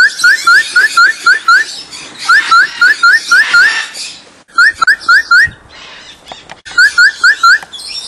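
A bird calling close by: runs of quick rising whistled notes, about five a second, in four bursts of four to eight notes with short pauses between.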